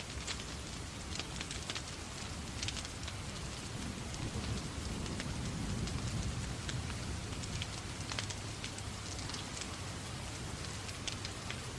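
Steady rain hiss mixed with a crackling fireplace fire, with scattered sharp pops and ticks. A low rumble swells up about four seconds in and eases off a few seconds later.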